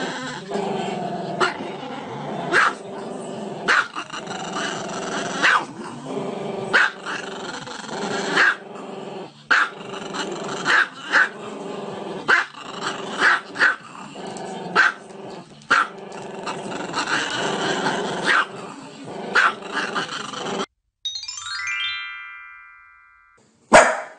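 A dog barking repeatedly, about once a second, over background music. Near the end the barking stops and a quick run of notes falling in pitch rings out.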